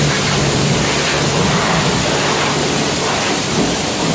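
Automatic car wash spraying water: a steady, loud hiss of water jets over a low machine hum.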